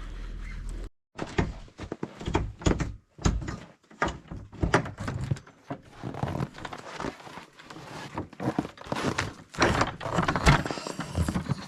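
Blocks of firewood thudding and knocking together as they are handled and tossed, a run of irregular wooden thunks.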